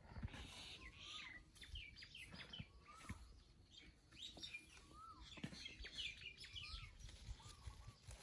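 Faint birds chirping in the background: many quick high chirps, and a short call that rises and falls, repeated several times.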